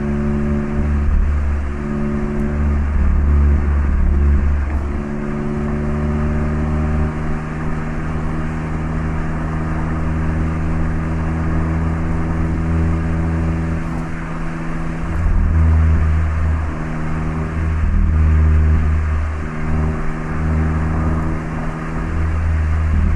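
Mazda MX-5 ND's 1.5-litre four-cylinder running through an HKS Legamax Sports aftermarket exhaust while driving: a steady cruising note that breaks off briefly a few times in the second half as the throttle is lifted.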